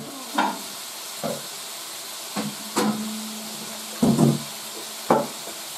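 Beef, onion and shaggy ink cap mushrooms sizzling in a wok, with a stirring utensil knocking and scraping against the pan about six times.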